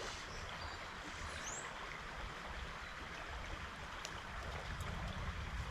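Water of a small trout stream running steadily, with a brief high chirp about a second and a half in.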